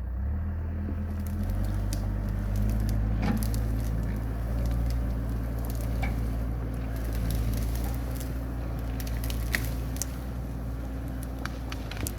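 An engine idling steadily with a low hum, overlaid by scattered crackling clicks and snaps.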